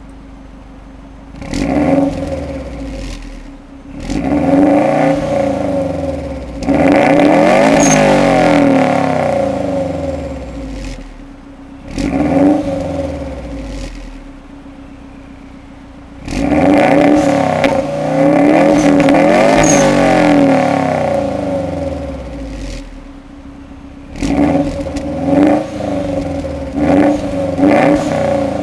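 Subaru Forester STi SF5's turbocharged flat-four engine heard through its exhaust, revved repeatedly from idle. There are short blips, two longer holds at high revs, and a quick run of short blips near the end, with the engine falling back to idle in between.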